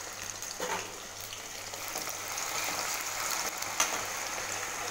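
Cubed potatoes and cumin seeds frying in hot oil in a kadhai, a steady sizzle, with a couple of light knocks from the slotted spoon in the pan.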